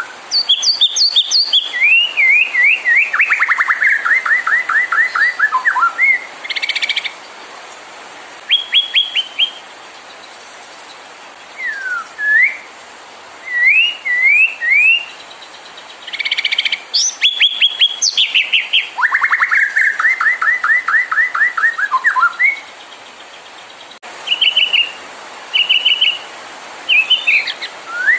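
White-rumped shama (murai batu) singing: bursts of loud whistled phrases and long runs of rapidly repeated sweeping notes, with pauses of a second or several between them, over a steady hiss.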